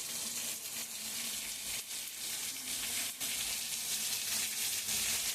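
Heavy rain falling in a steady hiss, with a few sharp drip or splash ticks.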